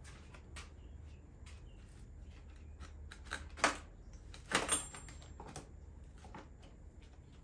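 Scattered clicks and knocks of tools and metal parts being handled during U-joint work on a driveshaft, with two louder metal clanks about three and a half and four and a half seconds in, the second ringing briefly.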